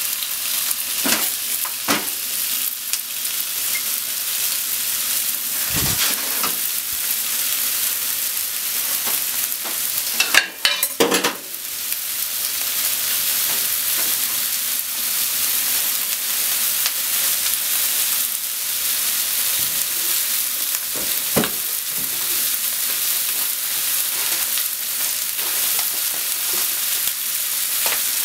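A chicken thigh sizzling in hot fat in a nonstick frying pan: a steady, high hiss with scattered sharp pops and a brief burst of louder crackling about ten seconds in.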